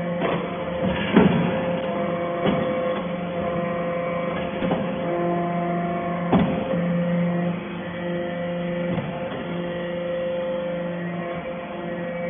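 Steel shaving baler running: a steady machine hum with a few sharp knocks in the first half.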